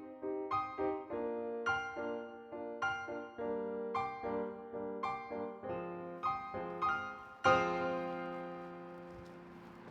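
Solo piano playing a slow melody of single notes and chords, each struck and decaying, ending with a loud sustained chord about three-quarters of the way in that rings out and fades.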